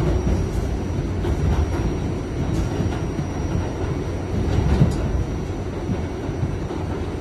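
Kawasaki R68A subway car running, heard from inside the car: a steady low rumble with scattered wheel clicks on the rails and a faint steady high tone.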